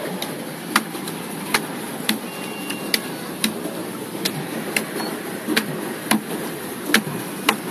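Pedal boat being pedalled: a sharp click from the pedal drive about every 0.8 seconds, over the steady churning splash of the paddle wheel in the water.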